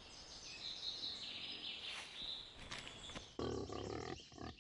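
Birds chirping over a quiet outdoor background; about three quarters of the way through, a louder, lower-pitched sound sets in suddenly.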